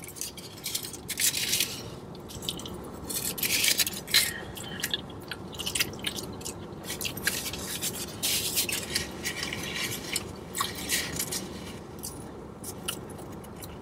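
A man chewing and biting into a chicken burrito, with wet mouth sounds and irregular crackles from the aluminium foil wrapper in his hands.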